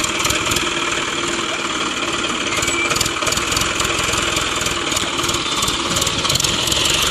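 Tractor diesel engines running steadily under heavy load as two tractors pull against each other in a tug-of-war.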